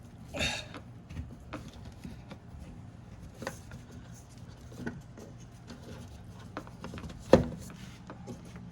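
Handling noises of hands working inside a car door: scattered small clicks and knocks, a brief rustling scrape at the start, and one sharp knock about seven seconds in, over a steady low hum.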